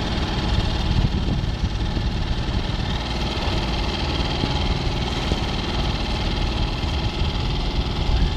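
A small fishing boat's engine running steadily at low speed with a low rumble, water and wind noise over it, as the boat trolls a line.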